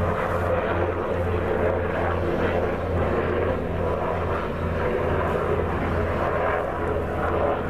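Helicopter passing overhead: a loud, steady low drone of rotor and engine with a slight pulsing to it.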